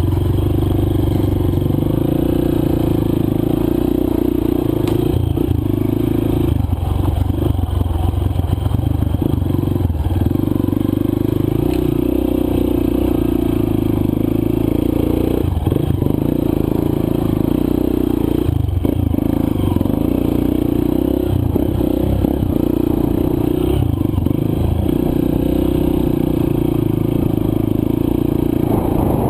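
Single-cylinder four-stroke dirt bike engine running under way on a loose trail, its steady pitch breaking off and picking up again several times as the throttle is rolled off and back on, with rattling and scraping from the bike over rough ground.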